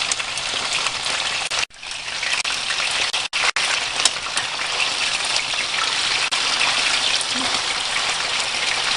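Food frying in hot oil in a pan, a steady dense sizzle that cuts out abruptly for an instant a little under two seconds in and twice more around three and a half seconds in.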